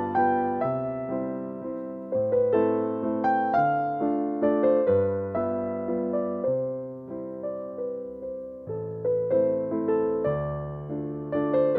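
Background piano music: a slow, gentle melody of single notes over sustained low chords, each note struck and fading.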